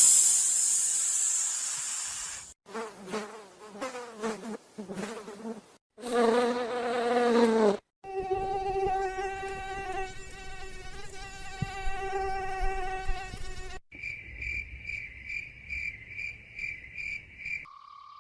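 A run of separate animal sound effects: a hiss, two short pitched calls, then several seconds of a steady insect buzz, followed near the end by evenly pulsed high chirping, about three chirps a second.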